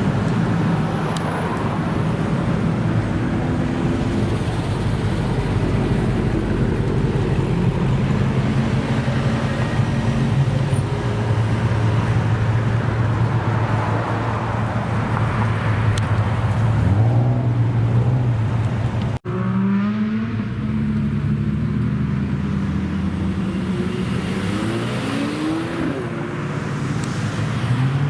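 Modified car engines running through aftermarket exhausts, with a steady low exhaust note broken by a few rising revs as cars pull away. An abrupt cut about two-thirds of the way through switches to another car.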